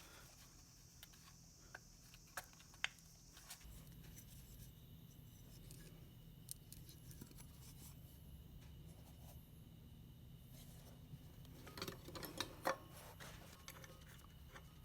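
Faint, scattered clicks and light taps of small hand work over a low steady hum, with a short cluster of louder clinks about twelve seconds in.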